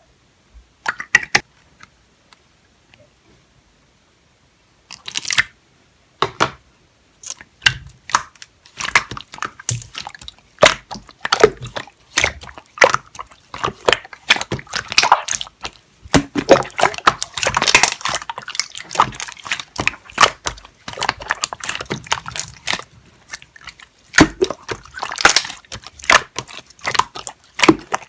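Clear slime being squished and stretched by hand, making quick wet clicks and pops: a few in the first seconds, then a dense run.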